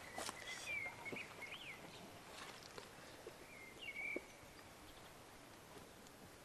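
Quiet outdoor ambience with a small songbird calling: a short run of chirping, pitch-bending notes near the start and another about four seconds in, over faint rustles and clicks.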